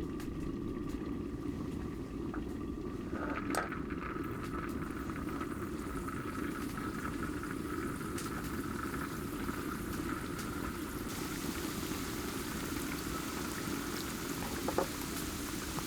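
Liquid bubbling at a steady boil, with a few faint clicks.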